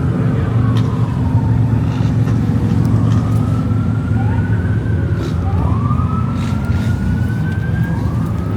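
Police siren wailing, its pitch slowly rising and falling again and again, over a loud, steady low engine rumble.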